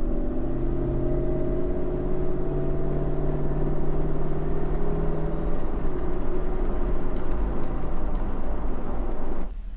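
2007 Cadillac Escalade's V8 engine running as the truck drives, still with a dead miss on the passenger-side bank (cylinders 2, 4, 6 and 8 not firing). Its steady drone rises slowly in pitch, then steps down about six seconds in.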